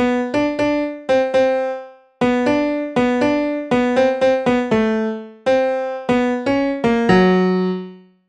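A short piano-like keyboard tune of quick, sharply struck notes in a few short phrases, ending on a held low note about seven seconds in that fades out.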